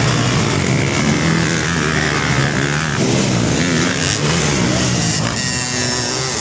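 Motocross dirt bike engines revving, their pitch rising and falling as the throttle opens and closes.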